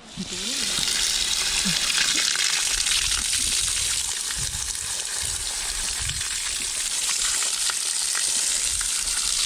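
Steady rushing hiss of a waterfall, starting abruptly at the outset.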